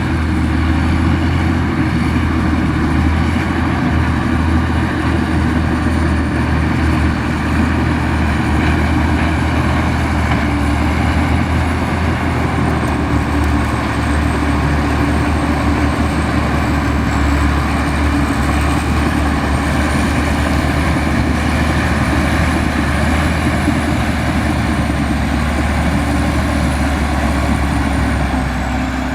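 Heavy diesel engine of a Komatsu bulldozer running steadily at a constant level, with a faint high whine drifting up and down in pitch above the engine noise.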